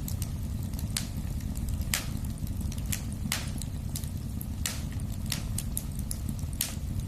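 Wood fire burning in a fireplace: a steady low rumble of flames with irregular sharp crackles and pops, a few louder ones among many small ticks.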